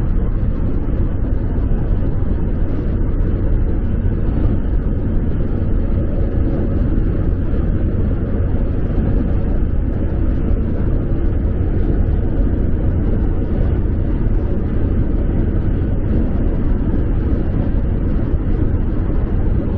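Steady low rumbling noise with no change in level, which cuts off suddenly at the end.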